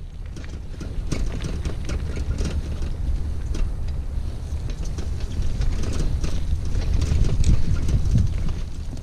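Wind rumbling on the microphone, with irregular crackles and clicks over it.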